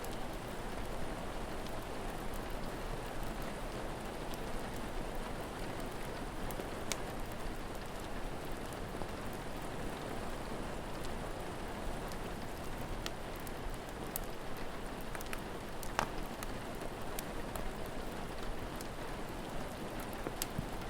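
Steady rainfall, with scattered sharp crackles from a wood fire and one louder pop about three-quarters of the way through.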